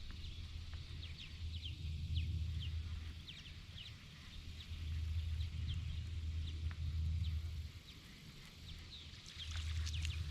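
Small birds chirping in many short, quick calls, over a low hum that comes and goes in stretches of a few seconds.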